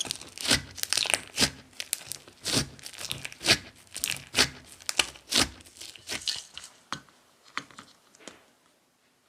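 Thick, chewy clear slime being stretched, folded and pressed by hand, giving sharp crackles and pops about once or twice a second that thin out and fade after about seven seconds.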